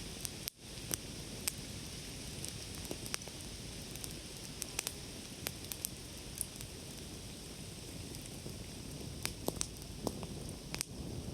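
Wood campfire burning, with a steady hiss of the flames and irregular sharp crackles and pops, a small flurry of them near the end. The sound cuts out for an instant about half a second in.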